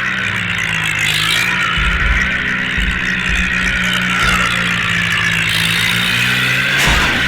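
Tractor engine running steadily, with some low thumps in the middle.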